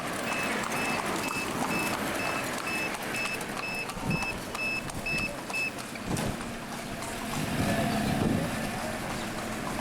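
Street traffic noise with a rapid electronic beeping, about three evenly spaced beeps a second, that stops about six seconds in. The traffic grows louder for a moment around eight seconds in.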